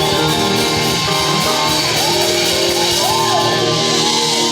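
Live praise band music playing loudly under held chords, with a melody line bending up and down in pitch in the second half.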